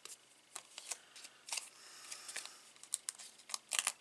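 Light clicks, taps and paper rustles of cardstock being handled as foam adhesive dimensionals are peeled and pressed onto a card panel, with a quick cluster of clicks near the end.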